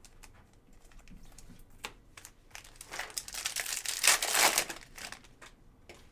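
Plastic foil wrapper of a trading-card pack crinkling as it is handled and opened, loudest from about three to five seconds in, after a few light clicks and taps.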